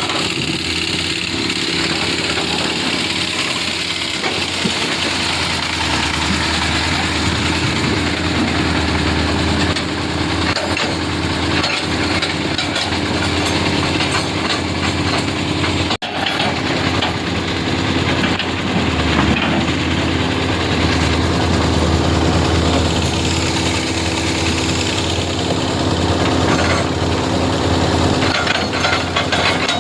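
Engines running steadily: an even low hum under a constant wash of mechanical noise, with a momentary break about halfway through.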